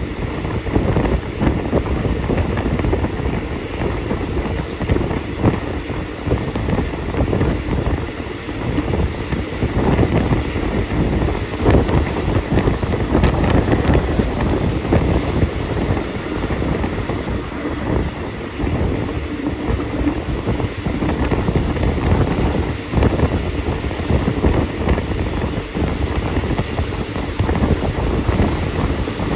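A train running along the rails, its steady rumble and irregular clatter mixed with wind buffeting the microphone held out in the rushing air.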